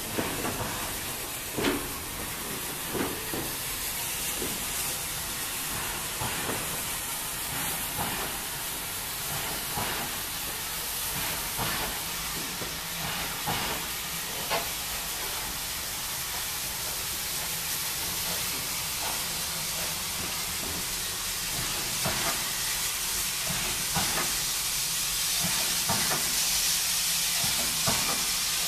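PKP Pm36-2 steam locomotive hissing steam at slow speed, with irregular clanks and knocks from the engine and running gear. The hiss grows louder near the end.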